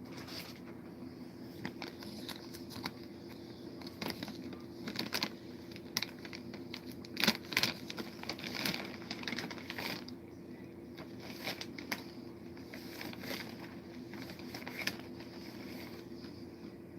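A plastic snack packet crinkling and rustling as it is handled, with irregular sharp crackles that are busiest in the middle, over a steady low hum.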